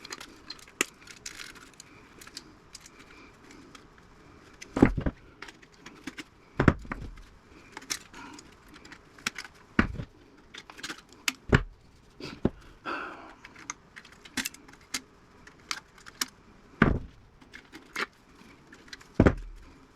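Irregular clicks and metallic clinks of small wires and parts being cut and pulled from an old radio chassis, with several louder knocks of metal pieces set down or dropped.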